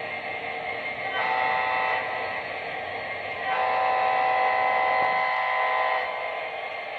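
Train horn sounding twice, a short blast and then a longer one, over a steady hiss.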